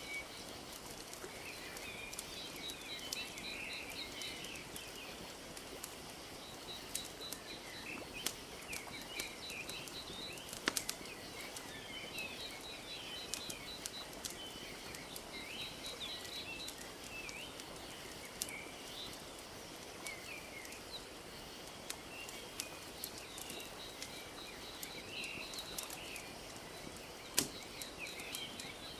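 Wood fire crackling, with scattered sharp pops, two louder ones near 11 s and 27 s, over a soft, steady wash of lapping lake water. Small birds chirp throughout, and a rapid high trill recurs several times.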